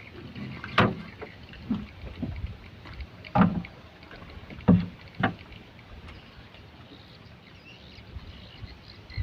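Knocks against a small boat's hull, about five over several seconds, with quiet water lapping between them.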